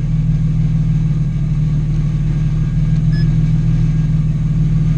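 Nissan 350Z's 3.5-litre V6 idling steadily through an aftermarket Borla exhaust, with a short electronic beep about three seconds in.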